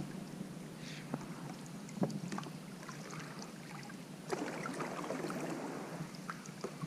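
Quiet on-the-water sound from a kayak: faint water and wind hiss with a few light knocks, about one and two seconds in, and a slightly louder one a little past four seconds.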